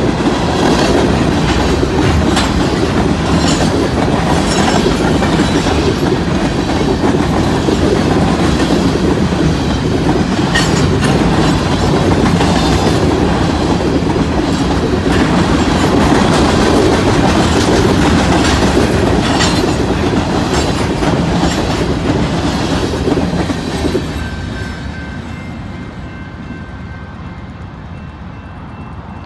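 Covered hopper cars of a freight grain train rolling past at close range: a steady heavy rumble with the clickety-clack of wheels over rail joints. It fades about 24 seconds in as the end of the train passes and moves away.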